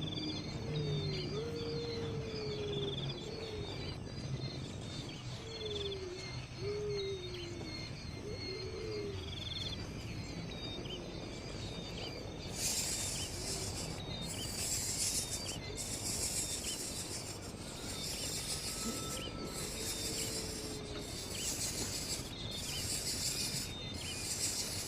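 Outdoor bird calls and chirps, some of them low and gliding. About halfway in, a high buzz joins, coming on and off roughly once a second.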